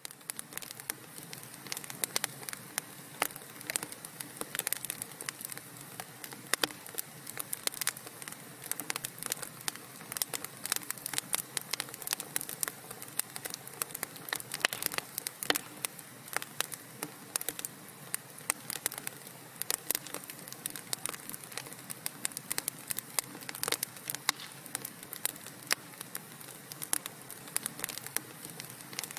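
Wood fire burning in a fireplace: steady soft hiss of the flames with frequent sharp, irregular crackles and pops.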